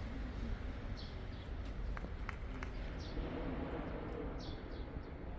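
Outdoor football-pitch ambience. A steady low rumble of wind on the microphone runs throughout. Faint distant shouting from the players comes from about three seconds in. A few short high chirps and three sharp clicks come around two seconds in.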